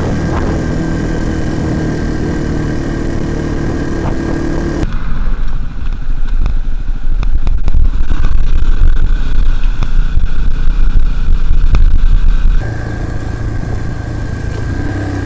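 Dirt bike engine running steadily. About five seconds in, a loud low rumble with rattling knocks, typical of wind buffeting the microphone while riding, drowns it out for several seconds. Then the engine is heard plainly again.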